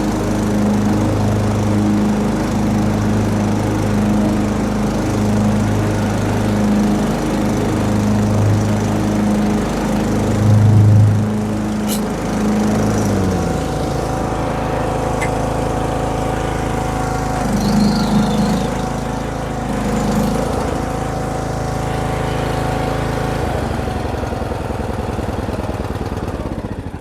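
Briggs & Stratton single-cylinder engine of an MTD lawn tractor running steadily as the tractor is put through its paces. The engine note changes about halfway through, and the sound dies away at the very end.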